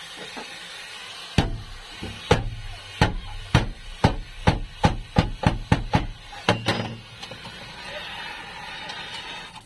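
Hammer blows on sheet steel, about thirteen strikes that come faster as they go, from about one a second to about three a second, then stop about two seconds before the end.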